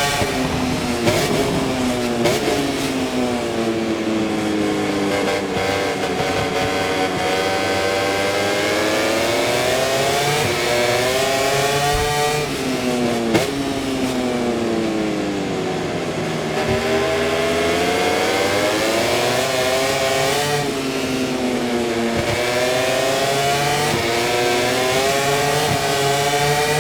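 Aprilia RS-GP MotoGP bike's V4 engine heard onboard at racing speed. Its pitch falls as the bike slows into corners and climbs as it accelerates out, three times over, with a sharp drop about twelve seconds in and a few sharp pops, the loudest about thirteen seconds in.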